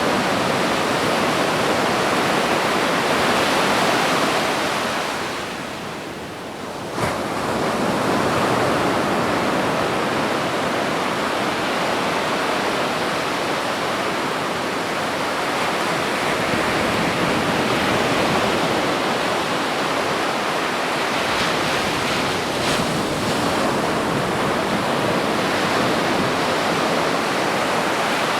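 Ocean surf washing onto a beach in a continuous rush, easing off briefly about six seconds in before the next wave swells back, with a short sharp click about seven seconds in.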